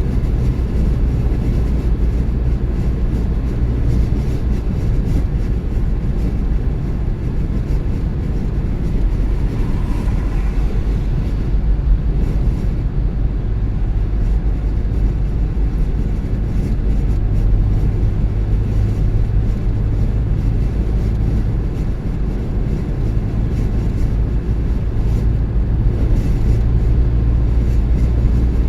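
Car driving at a steady speed: a continuous low rumble of tyre, road and engine noise with no sudden events.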